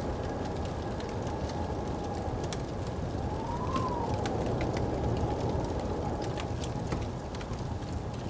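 Crackling wood fire with scattered sharp pops over the steady rush of a snowstorm wind, which whistles in a tone that rises and falls once about three seconds in.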